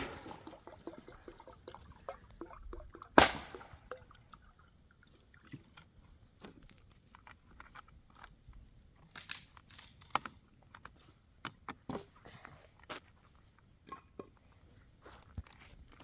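Scattered crunches and sharp cracks, with one loud crack about three seconds in and a run of irregular clicks later on.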